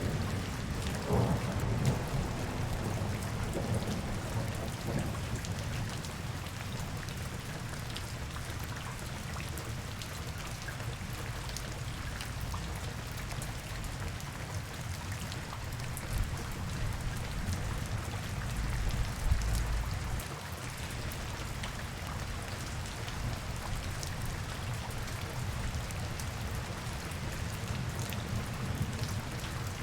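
Steady rain falling on hard surfaces, with a low rumble underneath that swells briefly a couple of seconds in and again around nineteen seconds in.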